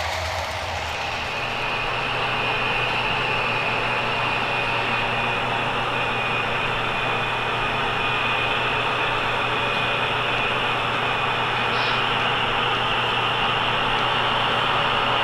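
HO scale model train running on the layout: a steady electric motor whine over a continuous wheel-on-rail rattle.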